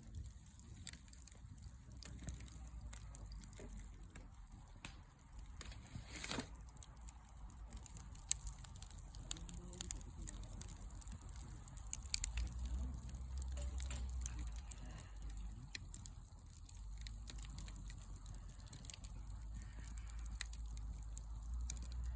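Wood campfire crackling: scattered sharp pops and snaps, some louder than others, over a low steady rumble.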